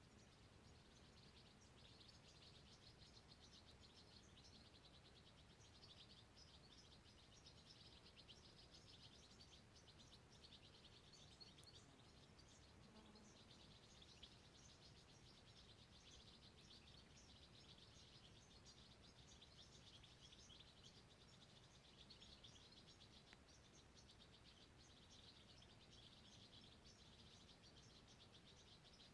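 Faint, continuous chorus of high, rapid bird chirps over a low, steady rumble of background noise.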